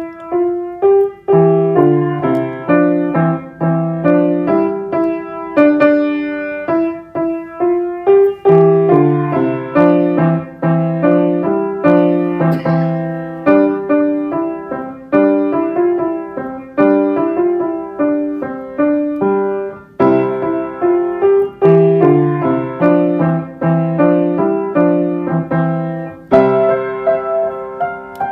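A child playing a tune on a piano keyboard: a melody over a repeated low accompaniment, each note struck and dying away.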